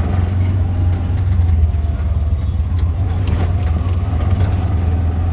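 Motor traffic: a steady low engine and road rumble from cars, continuous throughout.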